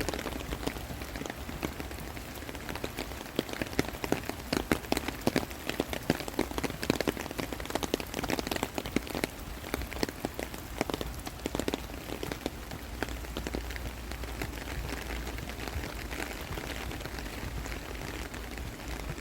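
Rain falling, with a dense run of sharp, irregular drop taps for several seconds that thins out into a steadier patter of rain.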